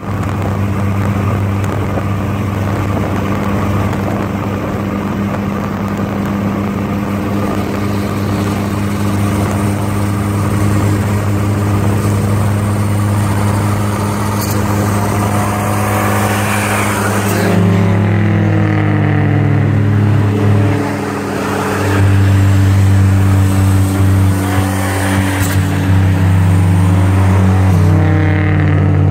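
Turbocharged Toyota Tercel engine running at a steady speed for the first half, then revved several times, its pitch rising and falling with each rev as the turbo spools.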